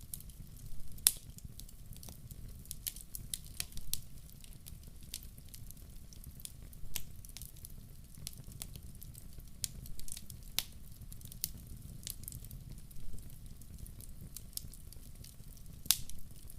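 Wood fire crackling in a fireplace: irregular sharp pops and snaps over a steady low rumble of the burning logs. The loudest pops come about a second in and near the end.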